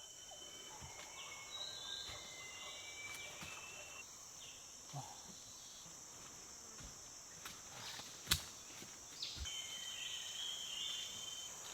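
Rainforest ambience: a steady high-pitched insect drone with short bird chirps over it, and a single sharp click about two-thirds of the way through.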